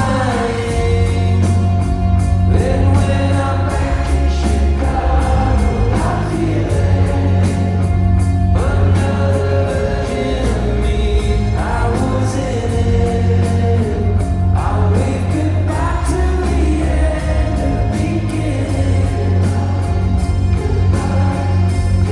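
Band music with a sung vocal melody over heavy, steady bass, plausibly a live concert set heard from the audience.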